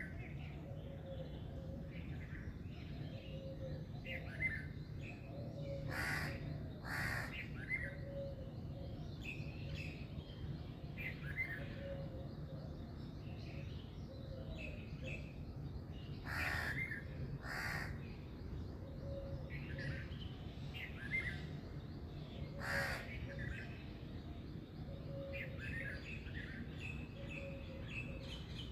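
A chorus of birds chirping and calling, with short chirps throughout and five louder, harsher calls, two pairs of them coming about a second apart. A steady low hum runs underneath.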